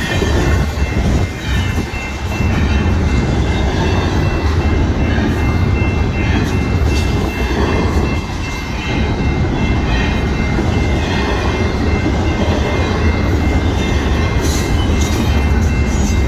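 Double-stack intermodal freight train rolling past at a grade crossing: a loud, steady rumble and clatter of steel wheels on rail, with a thin, steady high tone running above it.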